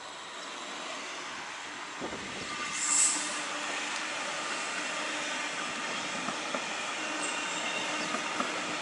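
Train running on the track: steady rolling rail noise that grows heavier about two seconds in, with a brief high-pitched burst about three seconds in and light clicks later.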